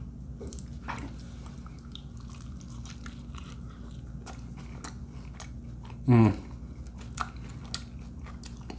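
A person chewing a mouthful of burrito dipped in queso, with many soft clicks of chewing and biting. About six seconds in, a short vocal 'mm' falling in pitch stands out as the loudest sound.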